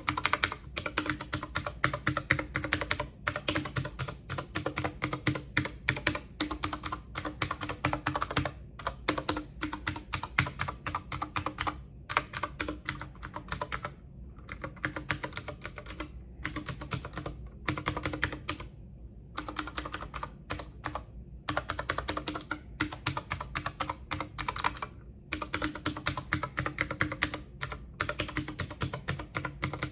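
Fast, continuous typing on a computer keyboard: a rapid run of key clicks, broken by a few brief pauses midway, over a faint steady low hum.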